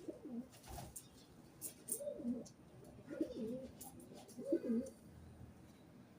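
A bird cooing on the rooftop in low, falling phrases, four of them a second or so apart, then stopping about five seconds in.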